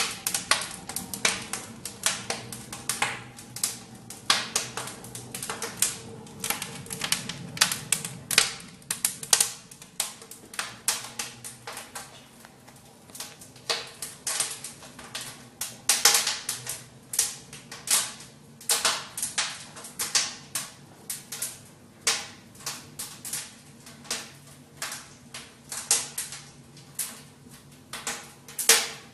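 Wood fire crackling and popping steadily, with irregular sharp snaps a few times a second.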